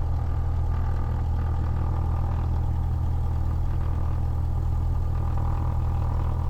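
Cessna 172's piston engine and propeller idling steadily just after a cold start, the engine still cold, with its oil thick and oil pressure at the top of the green arc.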